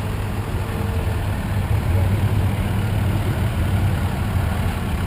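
Heavy engine idling steadily, a little louder from about two seconds in.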